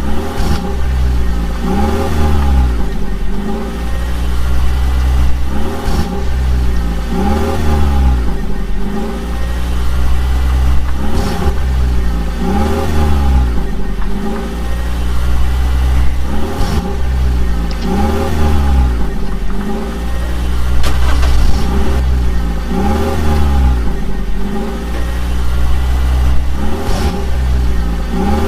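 Vehicle engine sound effect revving up and down on a repeating loop, the same swell coming back every three to four seconds over a steady low hum.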